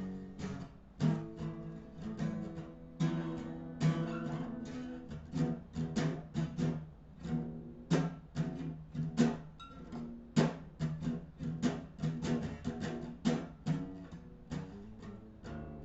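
Rock band playing an instrumental jam, with picked electric guitar notes over a bass line and no vocals.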